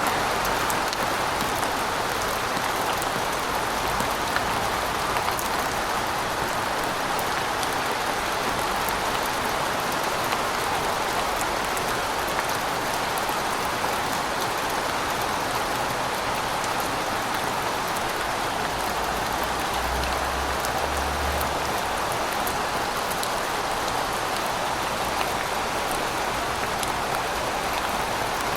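Steady, even rainfall, with many small drop ticks over a constant wash of rain noise.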